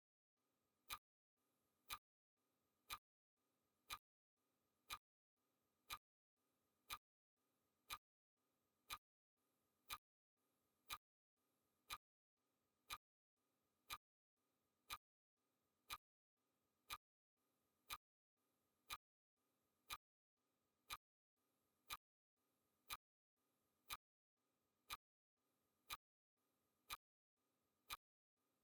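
Clock ticking sound effect: sharp single ticks, evenly spaced at one per second.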